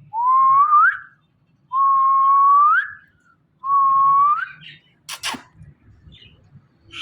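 Indian ringneck parakeet whistling three clear notes, each held and then rising at the end, followed a little later by a single sharp click.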